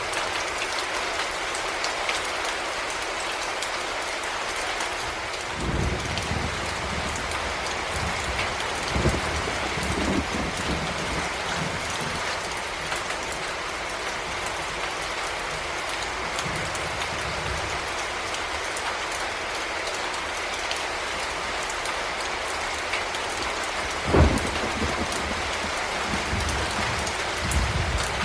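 Heavy rain falling steadily, with low rolls of thunder from about six seconds in and a short, louder thunder boom a few seconds before the end.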